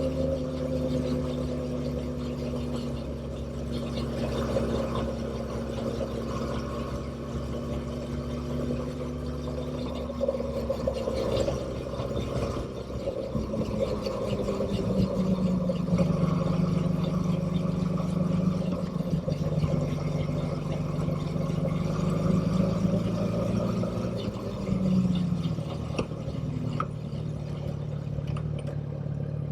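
Motorcycle engine running under way, its pitch easing down slightly, then rising about halfway through and holding steady as the revs climb.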